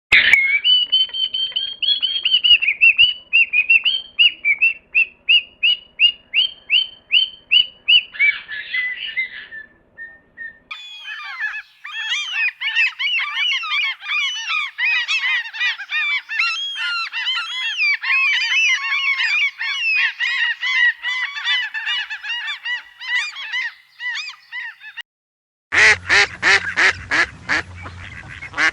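Birds calling in three runs: one bird repeating a short call about twice a second, then a dense chorus of many birds calling over one another, then loud, rapid calls near the end.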